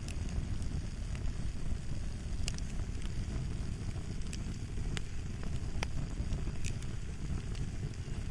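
Fire crackling: a steady low rumble with irregular sharp pops, several over a few seconds.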